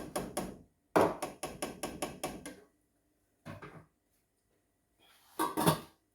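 A utensil knocking and clattering against a cooking pot: quick runs of sharp knocks, about five a second, in four short bursts, the longest about a second in.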